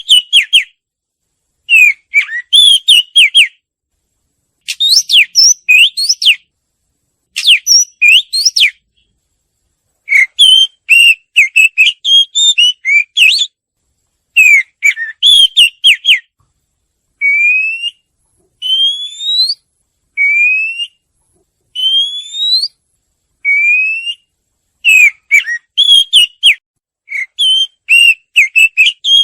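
White-rumped shama (murai batu) singing loud phrases of rapid, varied whistled notes, each a second or two long, with short silent gaps between them. Partway through, it switches to a run of single rising whistles, about one a second, then returns to the rapid phrases.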